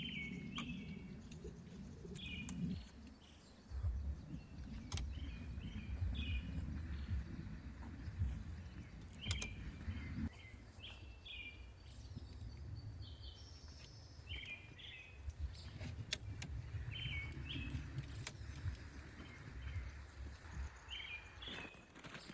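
Birds chirping in short, repeated calls every second or two, over an uneven low rumble.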